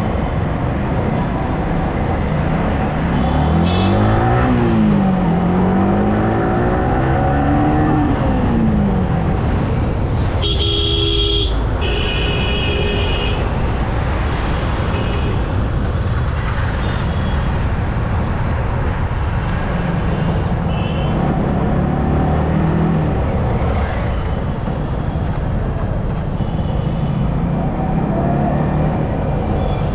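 Yamaha R15M motorcycle engine revving up and falling back as it rides through traffic, with steady road noise. A vehicle horn honks twice, about eleven and twelve seconds in.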